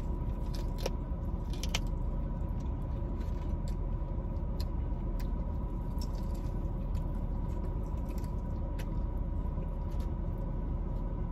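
Close-up biting and chewing of a fried chicken wing, with scattered small crunches and mouth clicks. Underneath is a steady low rumble and a faint steady whine, the hum of the car cabin.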